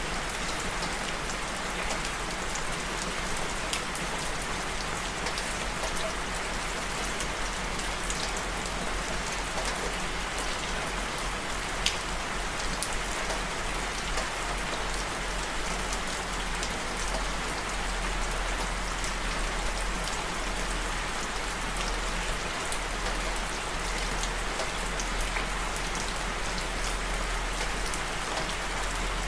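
Steady rainfall, an even hiss with scattered individual drop taps.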